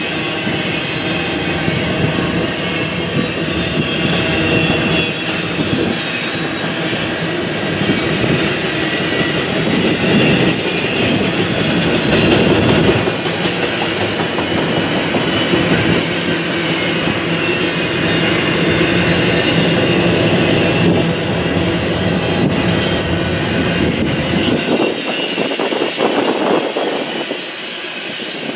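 Norfolk Southern freight train rolling past at close range: a steady, loud rumble of cars with wheels clattering over the rails. The low rumble falls away near the end.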